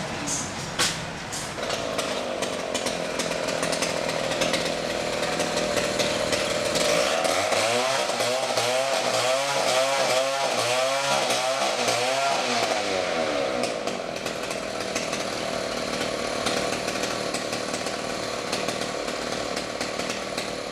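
A chainsaw running at high speed, a steady engine whine. For several seconds in the middle its pitch wavers rapidly up and down, then it settles steady again.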